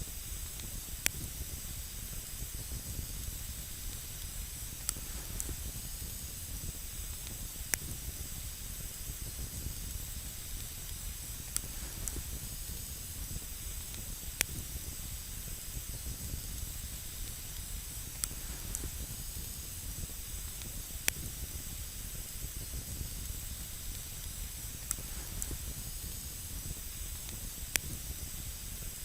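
Campfire burning with a steady hiss and a low rumble, with a single sharp crackle every few seconds.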